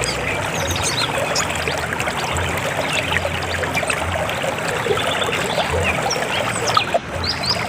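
River water flowing over rocks: a steady rush with many small splashes and gurgles over a low rumble.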